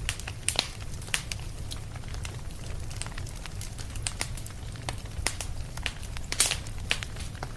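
Fireplace fire crackling: irregular sharp pops and snaps over a steady low rumble, with the loudest pop toward the end.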